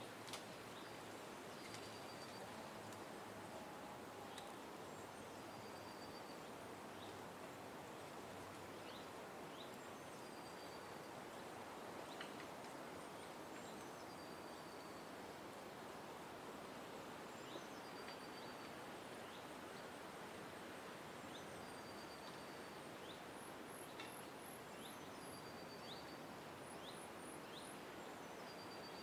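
Small songbirds calling over a faint steady background hiss: one bird repeats a short, high, slightly falling note about every four seconds, with scattered brief chirps and a quick very high twitter near the end.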